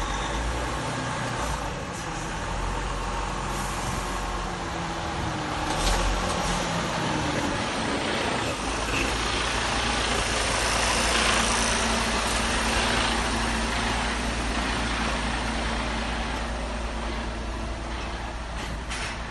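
A motor running steadily, with a low steady hum that settles in about eight seconds in.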